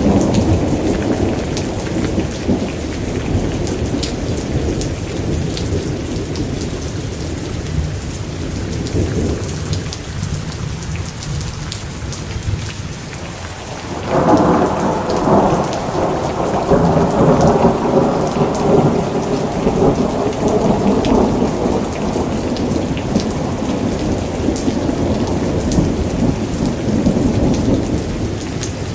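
Steady rain with rolling thunder; about halfway through a fresh, louder thunder roll breaks in and rumbles on.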